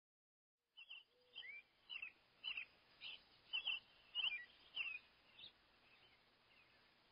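A bird calling: a run of about ten short chirps, each falling in pitch, roughly two a second, starting abruptly about a second in and fading out after about five seconds over a faint outdoor hiss.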